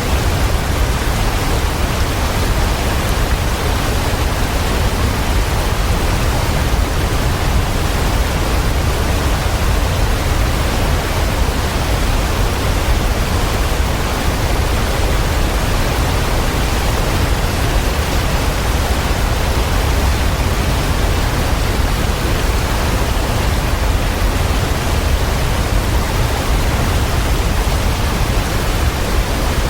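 Waterfall: a steady, unchanging rush of falling water with a deep rumble underneath.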